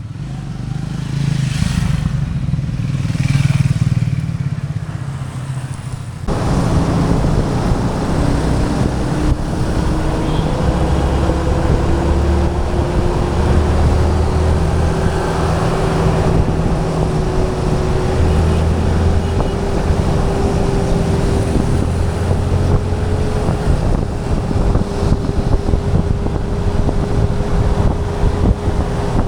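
Motorcycle engine running on the move, with wind and road noise over the microphone. About six seconds in, the sound jumps to a louder, noisier rush, and a faint engine tone then rises slowly in pitch as the bike picks up speed.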